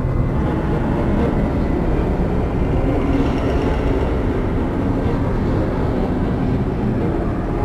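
A steady, loud low rumbling drone from a horror film soundtrack.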